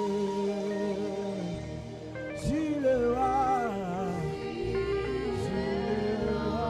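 Saxophone playing a slow gospel worship melody, with long wavering held notes and a swooping slide in pitch about two and a half seconds in, over sustained backing chords.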